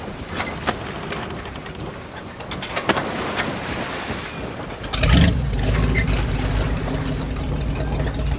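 Boat engine starting about five seconds in with a loud burst, then running steadily. Before it starts there is wind noise with scattered clicks.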